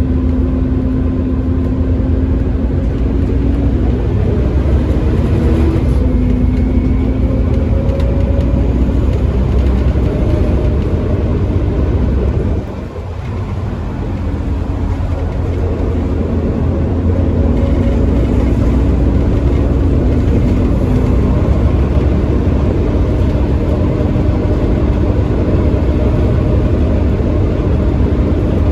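Bus engine and driveline working hard, with a held whine (the bus's 'hoover' sound) over a deep engine note that shifts slowly in pitch as it pulls. About 13 s in the sound drops away briefly, then builds up again under load.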